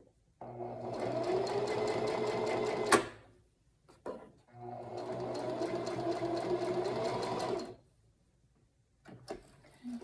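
Singer sewing machine stitching in two short runs of rapid, even needle strokes, with a sharp click as the first run stops. This is the seam being finished with a reverse stitch. A few faint clicks follow near the end.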